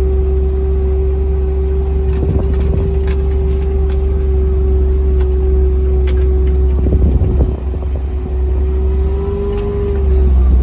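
Vehicle driving along slowly: a steady low rumble with a steady whine that stops near the end, and a few rattles and bumps.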